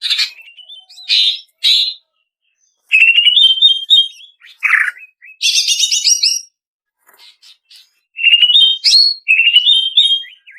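Female green leafbird (cucak ijo) singing in short phrases of chirps, quick trills and whistled notes, with brief silences between phrases and a longer pause just past the middle.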